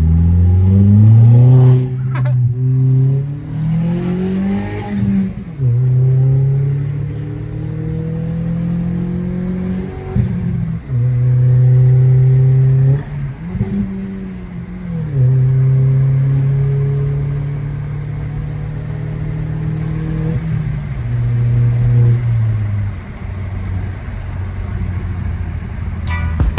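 Exhaust of an Audi A4 with a muffler delete under hard acceleration. The revs climb and drop back twice in the first five seconds as it shifts up. It then runs at a steady pitch with several brief dips.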